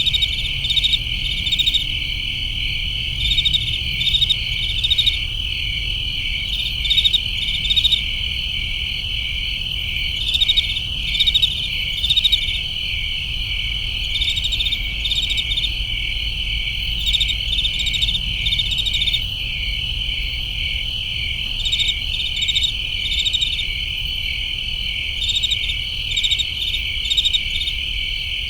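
Chorus of crickets chirping: a steady high trill with louder short chirps in quick clusters repeating about once a second. A low steady rumble sits underneath.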